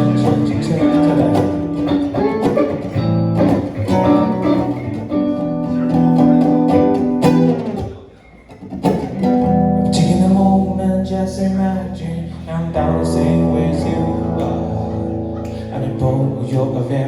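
Acoustic and electric guitars playing an improvised instrumental passage together. The playing stops briefly about halfway through, then comes back in fuller.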